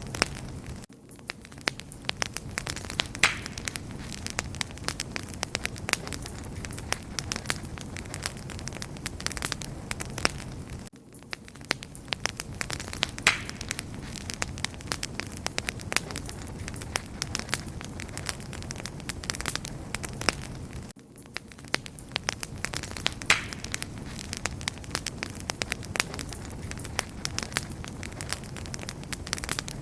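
Wood fire crackling steadily: dense sharp pops and snaps over a low rumble of burning. It is a loop that repeats about every ten seconds, with a brief dip in level each time it restarts.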